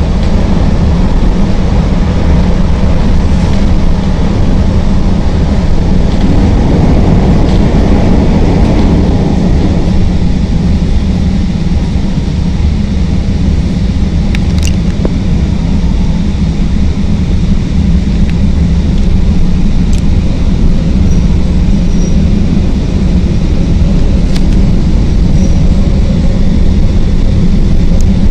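CTA rapid-transit train running at speed, heard from inside the car: a steady, loud rumble of wheels on rail, with a few sharp clicks.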